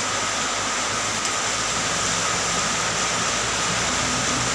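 Steady rushing wind and road noise from a moving motorcycle, with the low hum of its engine underneath.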